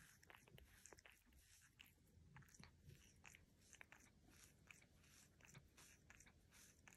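Cat grooming itself: a quick, irregular run of faint, close-up licks of its tongue on its fur, several a second.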